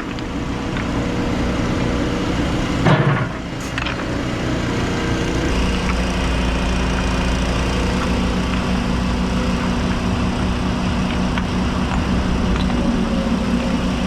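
Heavy-equipment diesel engine, likely the mini excavator's, running steadily, its low rumble growing louder about five seconds in. A single loud knock comes just before the three-second mark.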